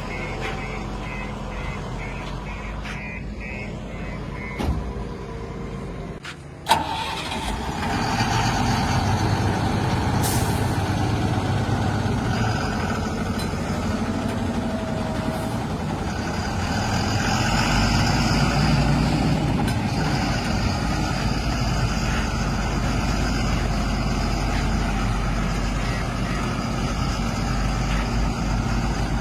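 Heavy diesel engines of earth-moving machinery running, with a faint rapid beeping at the start. A sharp knock about seven seconds in, after which the engine sound grows louder and swells again briefly in the middle.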